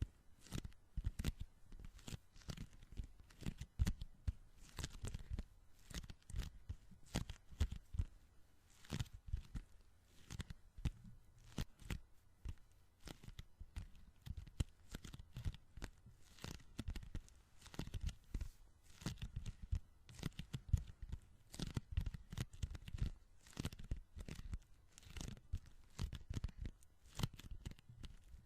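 Sticky hands: tacky fingers and palms pressed together and peeled apart, giving a fast, irregular run of small crackling, tearing pops, several a second.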